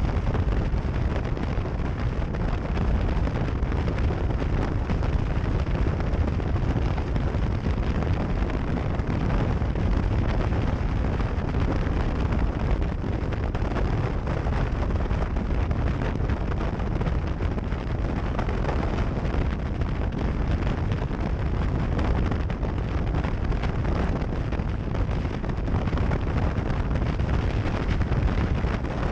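Steady wind buffeting on the microphone, a deep continuous rumble that holds even with no separate knocks or changes.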